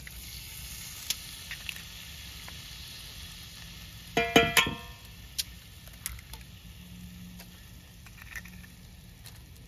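Food sizzling as it fries in a pan over a campfire, with scattered small crackles. About four seconds in, a utensil clinks against the pan a few times and the metal rings briefly.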